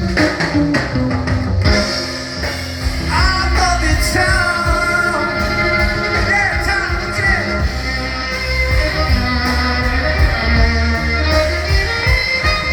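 Live band playing an instrumental passage of a slow jazz ballad, with guitar and a steady bass line under a lead melody that glides and wavers in pitch.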